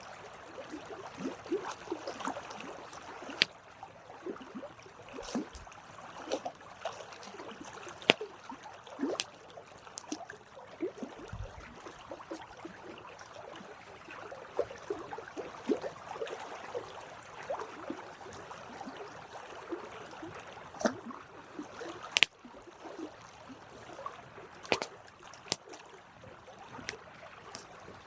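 Campfire burning: a steady crackle and hiss of burning wood with frequent sharp pops scattered throughout.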